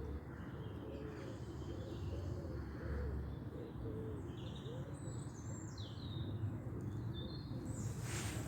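Woodland birdsong: small birds chirping with quick falling notes, over repeated low curving calls and a steady low rumble. A short hiss comes near the end.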